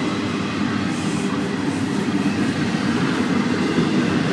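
Florida East Coast Railway double-stack container train rolling steadily past at close range: a continuous low rumble of wheels on rail and cars in motion.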